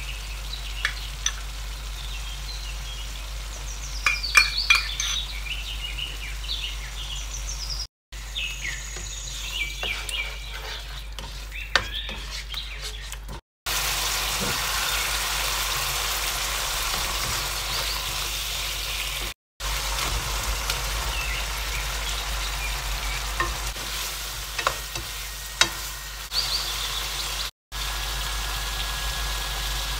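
A masala sizzling and frying in a non-stick wok while a plastic spatula stirs and scrapes through it, with scattered clicks and knocks of the spatula against the pan. The steady sizzle breaks off briefly several times where the recording is cut.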